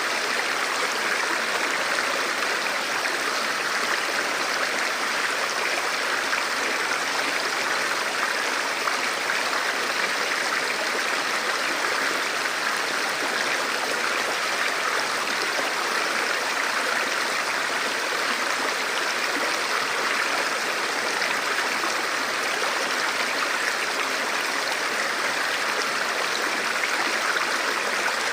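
Forest river or stream flowing over rocks: a steady rush of water with no breaks or changes.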